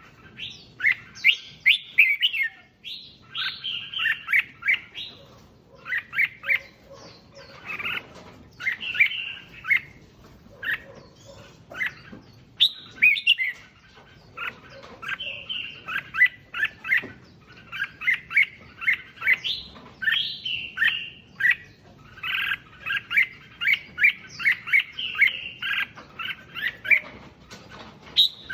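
Red-whiskered bulbuls singing: a steady stream of short, bright warbled phrases, coming in quick runs with brief pauses between them.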